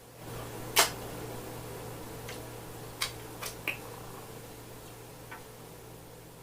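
Close-up eating sounds from a mukbang of okra soup and fufu: a sharp wet mouth smack about a second in, then several smaller clicks and smacks.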